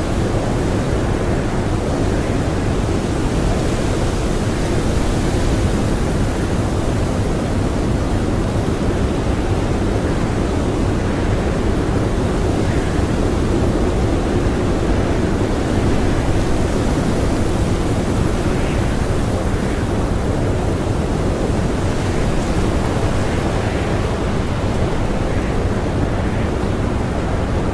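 Strong blizzard wind howling: a steady, dense rushing noise, heaviest in the low end, with slight swells and no distinct gusts or impacts.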